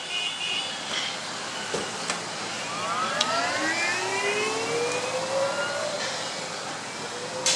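Bajaj Chetak electric scooter on the move: steady road and wind noise, with the motor's whine rising in pitch for a few seconds midway as the scooter speeds up.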